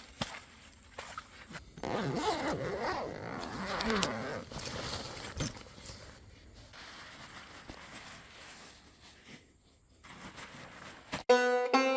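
A zipper being pulled in several scraping strokes, loudest between about two and five seconds in. Plucked-string music starts near the end.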